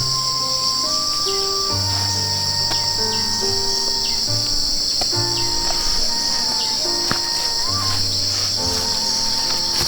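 A steady, high-pitched drone of insects, like crickets or cicadas, with a soft background tune of held melody notes over a slow bass.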